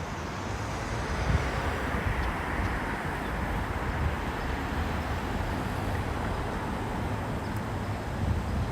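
Ocean surf washing on a sandy beach, with a wave swelling and breaking about two seconds in. Wind buffets the microphone with a low rumble.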